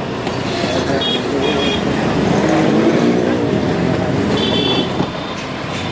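Road traffic and riding noise from a moving motorbike, a steady dense rumble of engines and wind. Short high-pitched tones come about a second in and again near the end.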